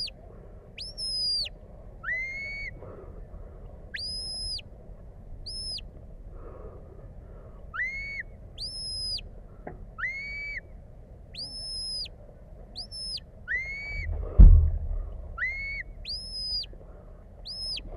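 Sheepdog handler's whistle commands: a run of short, sharp whistled notes, each sliding up, holding and dropping away, some pitched high and some lower, given in quick groups. About fourteen seconds in there is a brief low rumble.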